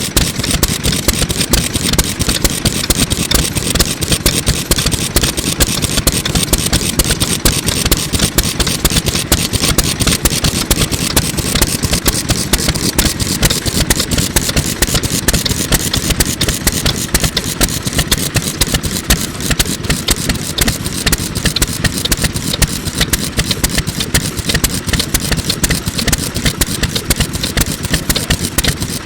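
MIKAWA 2 hp single-cylinder oil engine from around 1950 running steadily, its lively exhaust beats coming out of a small-capacity muffler.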